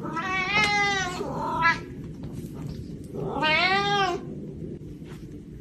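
A cat meowing twice, each meow about a second long; the second, about three seconds in, rises and then falls in pitch.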